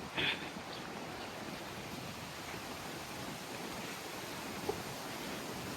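Wind buffeting the microphone, a steady rushing noise, with a brief louder sound just after the start.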